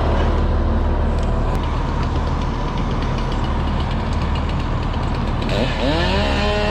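Fire engine's diesel running steadily at the pump panel with a constant low hum. About five and a half seconds in, a pitched whine sweeps up in pitch and then holds steady.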